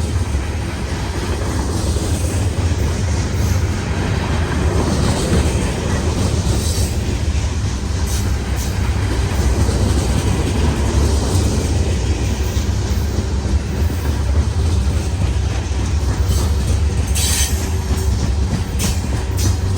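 Train rolling past, a steady heavy rumble with the clatter of wheels over the rails and a few brief sharp high sounds.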